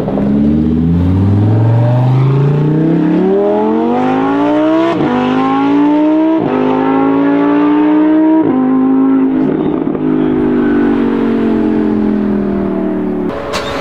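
Lamborghini Huracán EVO's 5.2-litre V10 accelerating hard, its pitch climbing steeply with three quick upshifts, each a sudden drop in pitch, about five, six and eight seconds in. It then holds one gear at a steadier, slowly easing pitch as the car pulls away.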